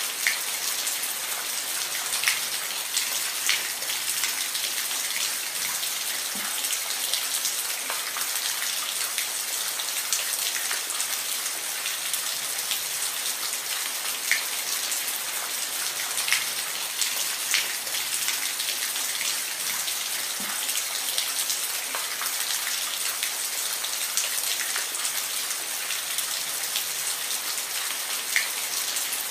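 Steady rain with a constant high hiss and scattered louder individual drops ticking on a surface.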